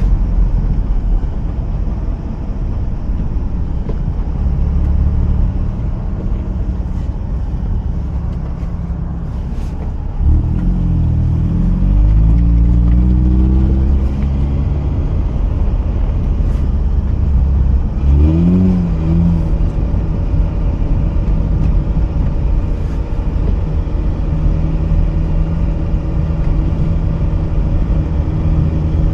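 Mazda RX-8's twin-rotor rotary engine running under way. Its note rises as the car accelerates about a third of the way in, and rises again briefly around two-thirds of the way in, over a steady low road rumble.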